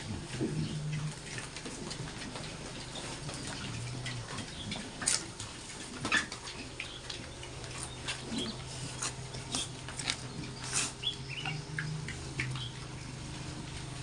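Large White pigs in a pen: scattered short squeaks, clicks and knocks, busiest in the middle, over a steady low hum.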